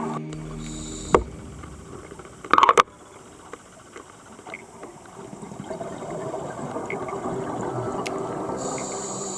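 Water noise picked up by an underwater camera, with a sharp click about a second in and a short, louder burst of sound between two and a half and three seconds in.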